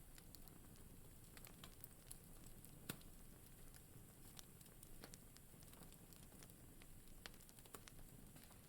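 Wood fire in a fireplace crackling faintly, with scattered small pops over a low rumble and one louder pop about three seconds in.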